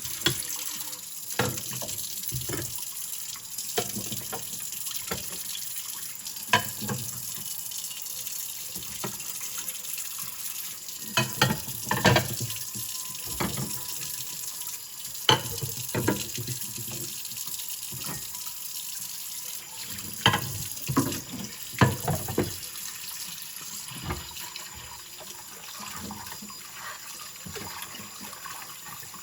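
Kitchen tap running into a sink, with scattered knocks and clinks of dishes being handled, a few louder ones in the middle and later on.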